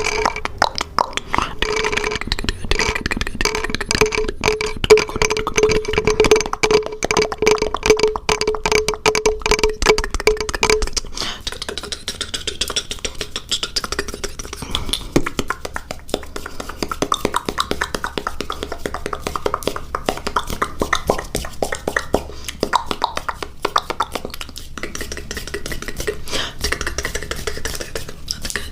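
ASMR mouth sounds: a rapid, dense run of wet clicks and pops from the lips and tongue held close to the microphone. A steady tone runs under the clicks for about the first ten seconds, then stops.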